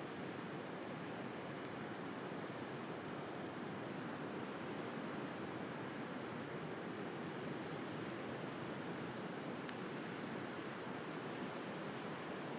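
Steady wash of sea waves with a few faint crackles from a wood bonfire, one sharper pop about ten seconds in.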